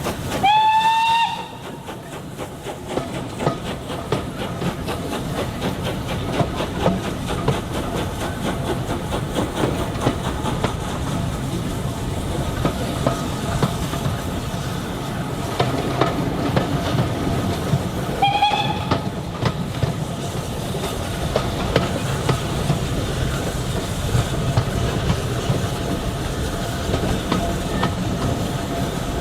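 Train whistle blowing once, loudly, about a second in, and again briefly past halfway, over the steady rumble and wheel clicks of a train running along the rails.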